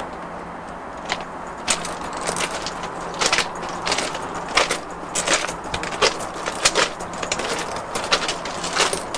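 Footsteps crunching on gravel, irregular crisp steps about one or two a second, over a faint steady hum.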